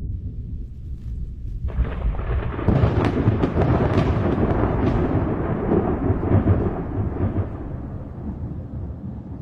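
A thunderclap: a low rumble swells suddenly about two seconds in, with several sharp cracks over the next few seconds, then rolls away and fades slowly.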